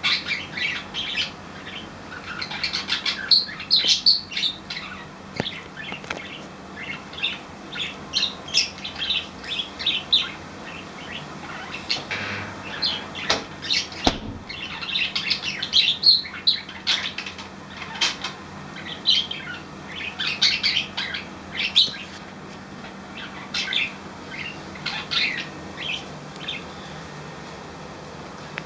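Pet budgies (parakeets) chirping and chattering in quick, short high calls, coming in clusters all the way through.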